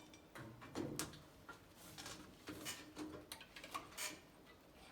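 Scattered light clicks and knocks of tools and metal parts being handled during pump repair work.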